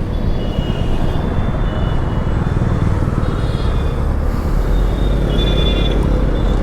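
Motorcycle riding in city traffic: steady engine and road rumble with wind noise on the rider's microphone. Several brief high-pitched tones from the surrounding traffic sound near the start, in the middle and near the end.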